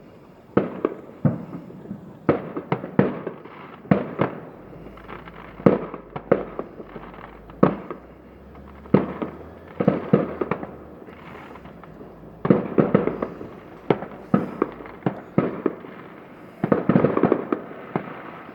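Fireworks going off: dozens of sharp bangs at irregular intervals, each with a short echoing tail, and dense bursts of rapid crackling about two-thirds of the way through and near the end.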